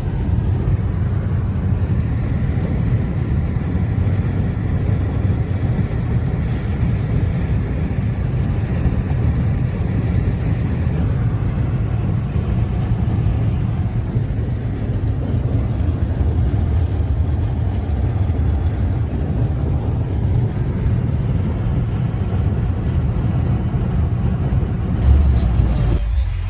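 Road noise inside a moving car's cabin: a steady low rumble of tyres and engine on the highway, briefly louder just before the end.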